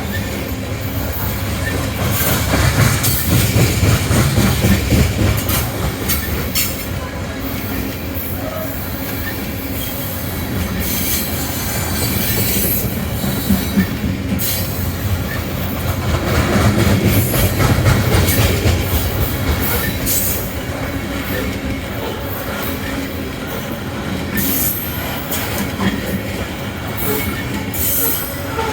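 Loaded coal hopper cars of a BNSF freight train rolling past, wheels clicking over rail joints with intermittent flange squeal. The low rumble swells twice.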